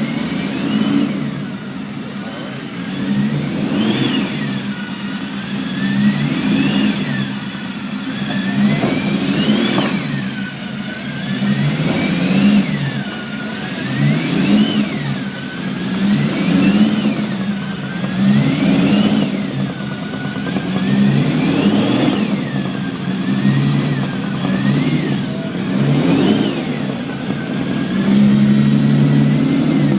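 Classic racing car engine being revved over and over, its pitch climbing and falling back about every two to three seconds.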